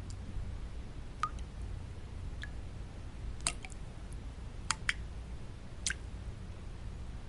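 Water drops falling one at a time at irregular intervals, about seven short plinks, one with a brief ringing pitch, over a steady low rumbling noise bed.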